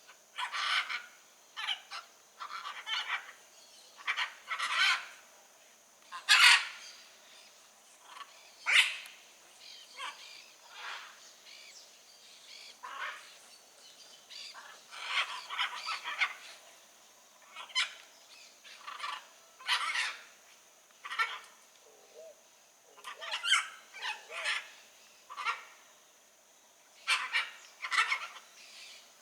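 Blue-and-yellow macaws giving harsh, raspy squawks: short calls one after another every second or two, with brief gaps.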